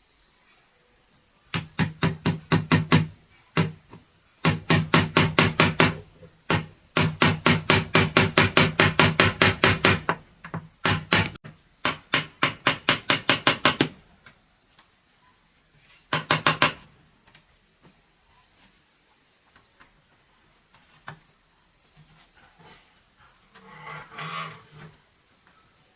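Fast, even hammer blows on wood, about six a second, in several runs with short pauses between them, then one brief burst a couple of seconds later. Crickets or insects keep up a steady high chirr underneath, and a short, softer sound comes near the end.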